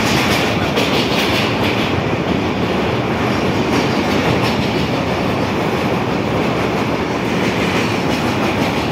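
Passenger train rolling across a steel truss bridge, heard from an open carriage window: a steady rumble of wheels on the rails, with some clicking over the rail joints in the first couple of seconds.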